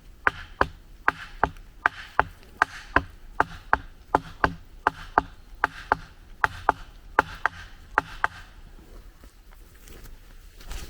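A tool striking wood in a steady rhythm: about twenty sharp blows falling in pairs, which stop after about eight seconds.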